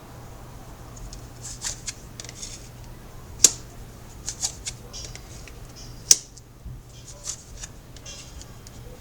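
Tarot cards being handled and laid out on a table: soft rustling and flicks of the cards, with two sharp snaps about three and a half and six seconds in.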